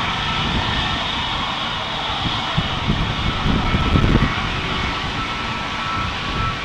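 Airbus A321neo jet engines running at takeoff power, a steady rush with a faint whine, while strong gusty wind buffets the microphone with an uneven rumble that swells around the middle.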